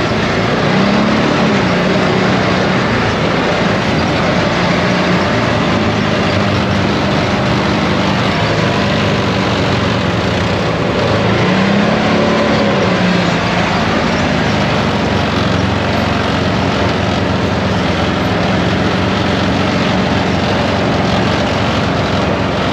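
ATV engine running while riding, its pitch rising briefly with the throttle about a second in and again near the middle, over a steady rush of noise.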